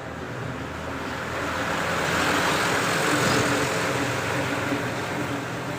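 A motor vehicle passing by: engine hum and road noise swell to a peak about halfway through, then ease off.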